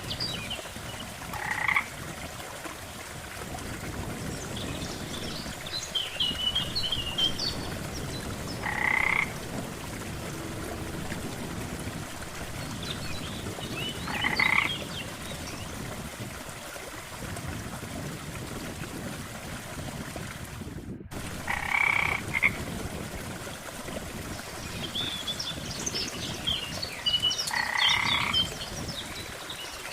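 Frogs croaking at a lakeside: five separate pulsed croaks, one every five to seven seconds, with clusters of higher chirping in between. Underneath is a steady low rush of water. The sound cuts out for an instant just before three quarters of the way through.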